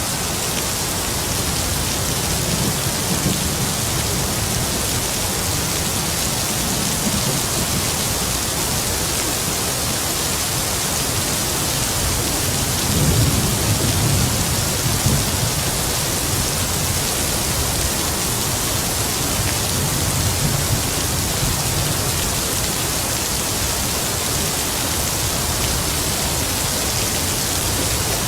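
Heavy rain falling steadily, with low rolls of distant thunder swelling and fading several times, the strongest about thirteen to fifteen seconds in.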